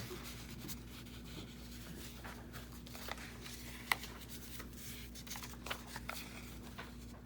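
Paper being handled and rustled, with small taps and clicks scattered through, one sharper click about four seconds in, over a faint steady hum.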